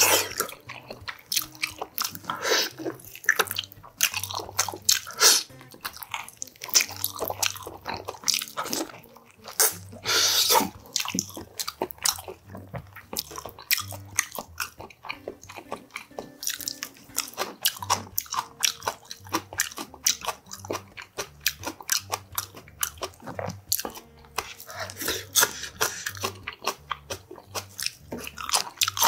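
A man chewing and biting food close to a clip-on microphone: boiled beef oxtail meat bitten off the bone, then greens, with many short, sharp mouth clicks coming at an uneven pace.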